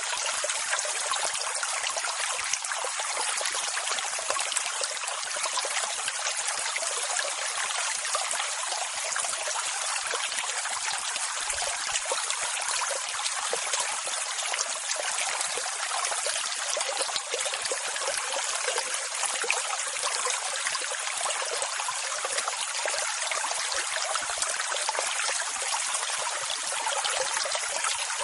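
Steady rushing water: an even hiss with almost no bass, keeping the same level throughout with no separate swells of breaking waves.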